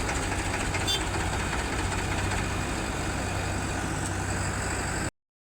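Heavy diesel engine of a tractor or JCB loader running steadily at a low rumble, cut off abruptly near the end.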